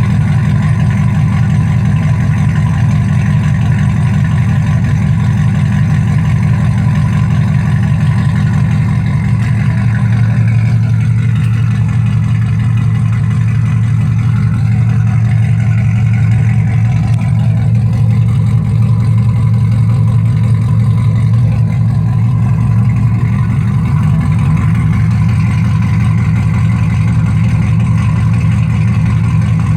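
2010 Camaro SS's L99 6.2-litre V8 idling on a cold start through long-tube headers, an X-pipe, no catalytic converters and a tipless Flowmaster Outlaw axle-back exhaust: a steady, deep, loud exhaust note. The idle note shifts slightly about a third of the way in and again near the end.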